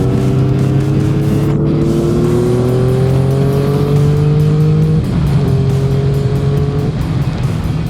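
Motorcycle engine pulling harder as the revs climb for about five seconds, then a gear change and steadier running, with music underneath.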